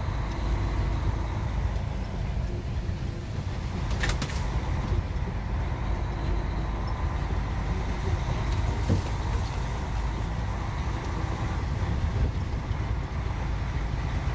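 Truck running with a steady low rumble, with a brief sharp rattle about four seconds in.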